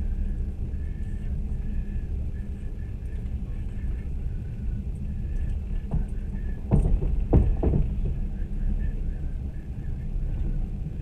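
Train running: a steady low rumble of wheels on the track, heard from inside the carriage, with a short run of sharp knocks about six to eight seconds in.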